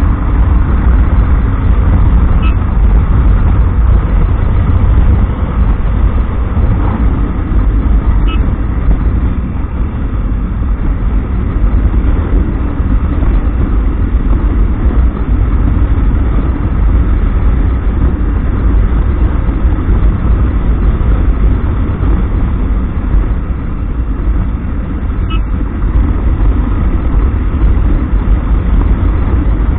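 Riding noise on a Royal Enfield Hunter 350 motorcycle: steady wind rumble on the microphone over the running single-cylinder engine.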